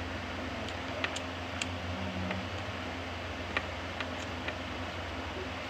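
A person eating rice and chicken curry: scattered small clicks and smacks of chewing and handling the food, about eight in all, over a steady low hum.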